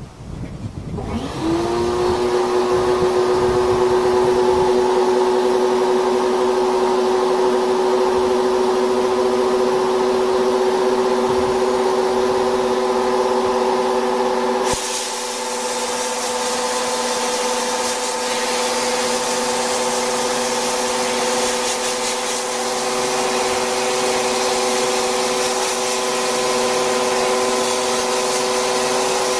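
An electric power tool spins up from rest about a second in and runs with a steady whine. About halfway through, a harsh, hissing scrape joins it as the spinning head is worked against the steel surface to clean it.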